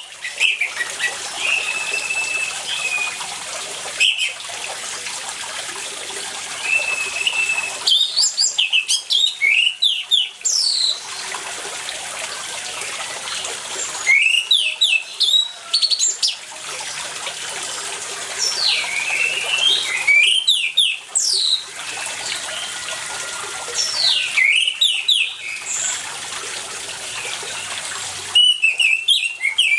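Orange-headed thrush singing in bursts of rapid, varied whistled phrases every few seconds, over the steady rush of running water.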